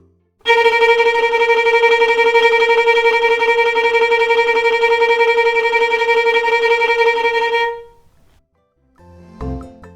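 A single musical instrument holding one long sustained note of steady pitch for about seven seconds, with a slight fast wavering in loudness, then a short lower sound just before the end.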